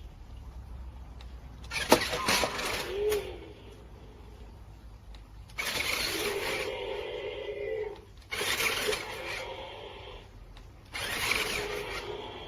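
Remote-controlled toy monster truck's electric motor running in four short bursts, a whirring tone with a rattly edge, with quieter gaps between.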